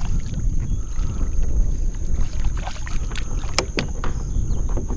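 Wind buffeting the microphone in a steady low rumble, with two sharp clicks about three and a half seconds in.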